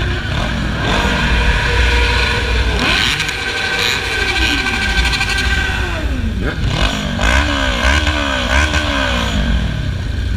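Several motorcycle engines running together, their pitches gliding down as they ease off and climbing again as they rev. About two-thirds of the way through, one engine revs up and down in a quick series of blips.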